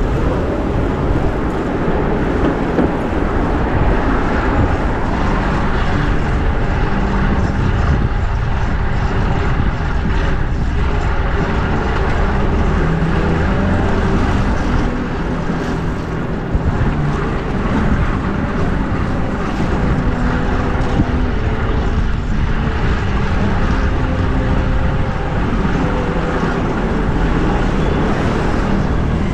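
Steady rush of wind on the microphone of a camera worn while riding a fixed-gear bicycle, mixed with the low drone of motor traffic.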